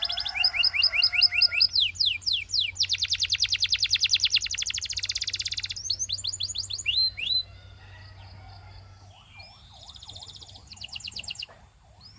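Canary singing: a run of fast rolling trills, each made of rapidly repeated notes, changing from one trill to the next. About seven seconds in the song drops to softer, more scattered phrases.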